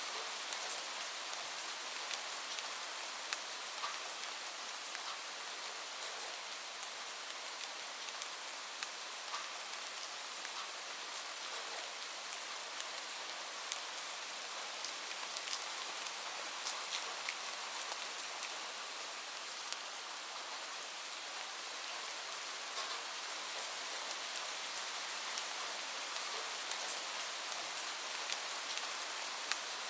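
Steady rain falling, an even hiss peppered with many sharp drop ticks on a surface.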